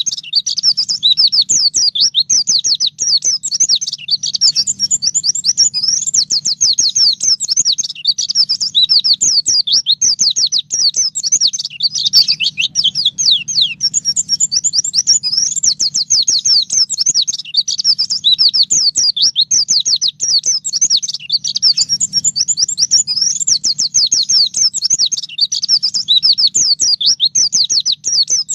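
Pleci (white-eye) singing a fast, high, continuous twittering song of rapid sweeping chirps, run together in long phrases: the shrill, canary-like 'nembak' song used as training audio for pet white-eyes.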